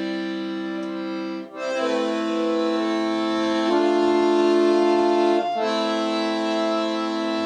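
Solo accordion playing a Russian folk-song arrangement in long held chords, which change about a second and a half in after a brief break, again near the middle, and once more a couple of seconds later.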